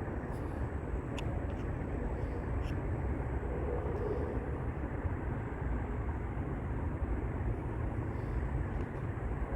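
Steady low outdoor rumble with no clear pitch, with a few faint clicks in the first three seconds.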